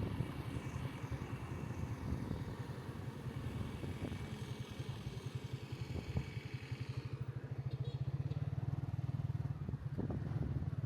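Motorcycle engine running with a low, evenly pulsing beat. About seven seconds in, a higher hiss drops away and the engine note settles steadier.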